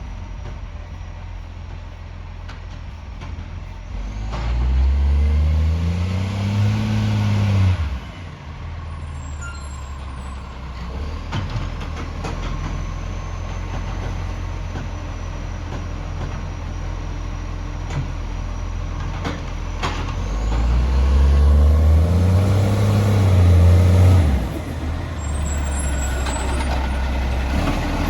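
Recycling garbage truck's diesel engine idling, revving up and falling back twice for about four seconds each time, once about four seconds in and again about twenty seconds in.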